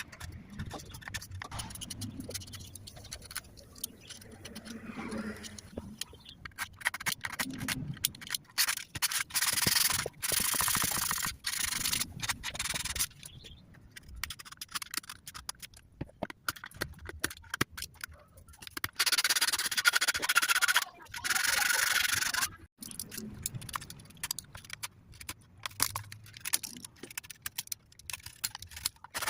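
Rubbing and sanding on wood for a miniature wooden ship model, in stop-start stretches, loudest about a third and two thirds of the way through.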